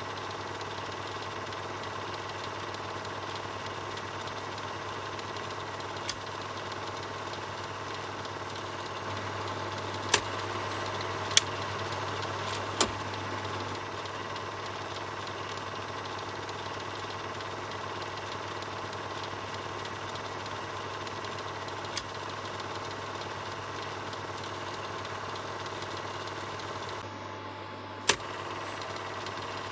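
Film projector running with a steady mechanical whir and hum. A handful of sharp clicks stand out, three close together around the middle and one near the end.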